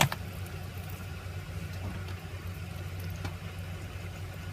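A steady low machine hum, with one sharp click right at the start and a few faint clicks about three seconds in.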